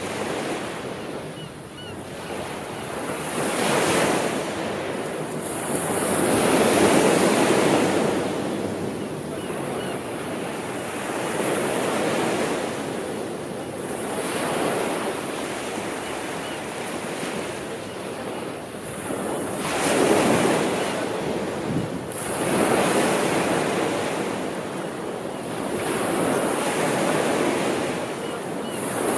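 Sea waves breaking and washing onto the shore, the surf swelling and easing every few seconds.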